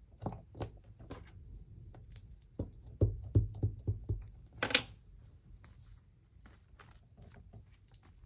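Small craft supplies handled on a desk: scattered light taps and clicks, a quick run of soft thumps about three seconds in, and a brief scraping rustle near five seconds.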